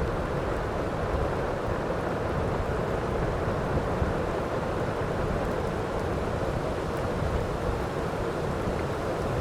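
Steady heavy rain falling, an even hiss with a low rumble beneath it.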